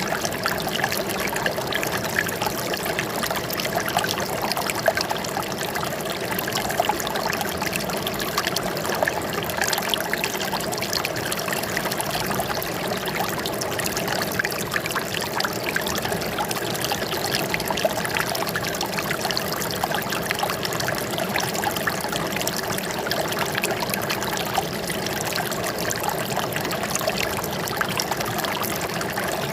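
Running water trickling and splashing steadily, with many small splashes.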